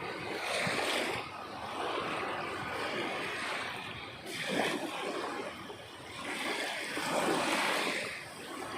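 Sea waves breaking and washing ashore, a steady rush of surf that swells louder three times as waves come in.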